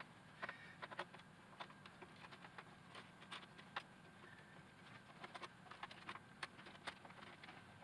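Faint, irregular light clicks and taps of the robot vacuum's plastic casing and parts being handled and unclipped during teardown.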